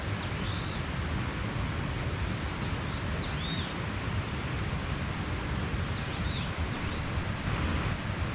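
Mountain stream flowing steadily, with a small bird's short arching chirps coming in little groups every few seconds.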